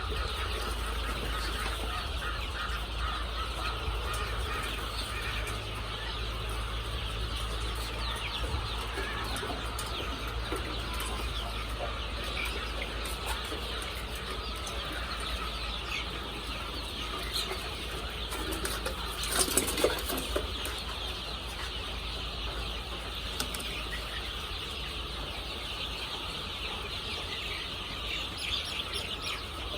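A flock of layer chickens calling continuously, a dense mix of peeps and clucks, with a louder burst of wing flapping about two-thirds of the way through. A steady low hum runs underneath.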